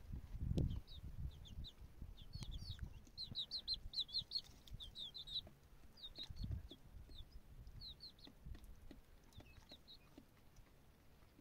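Birds chirping: many short, high, downward-falling chirps in quick runs, thickest around the middle and thinning out near the end. Low thuds and rumble sound under them in the first few seconds and once more past the middle.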